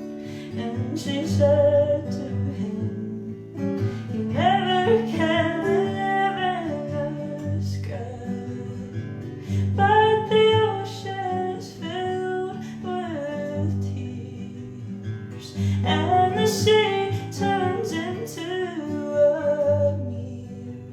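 Acoustic guitar strummed steadily under a woman singing a folk song in long phrases, with short guitar-only gaps between the lines.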